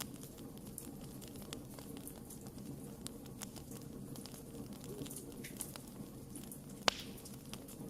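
Campfire crackling: scattered small pops over the steady low rush of the burning wood, with one sharper pop about seven seconds in.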